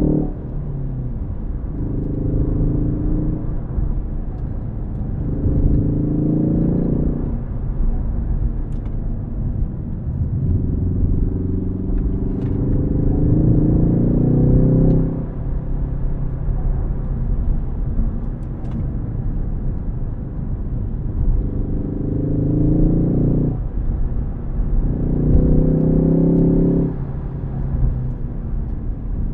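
Ford Focus ST's turbocharged four-cylinder engine pulling hard through the revs about five times, each climb cutting off suddenly as the throttle lifts or the next gear goes in. The longest pull comes in the middle. Low road rumble runs between the pulls.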